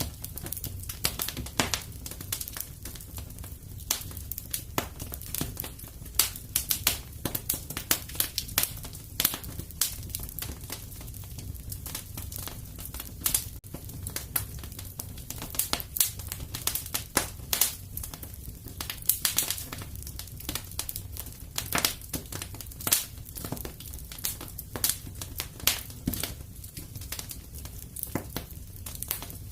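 Wood fire in a fireplace crackling, with frequent irregular sharp pops and snaps over a low steady rumble.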